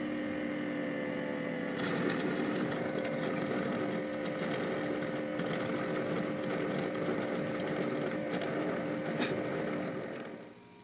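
Xiaomi X20 Max robot vacuum's dock washing its mop pads: the pads' motor hums steadily while they spin and scrub against the washing tray. A rougher scrubbing noise joins about two seconds in, and the whole thing winds down shortly before the end.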